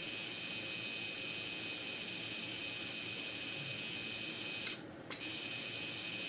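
Tattoo machine motor running steadily with a high-pitched whine, powered from a digital tattoo power supply. It cuts out about three-quarters of the way through and starts again half a second later as the foot switch is released and pressed.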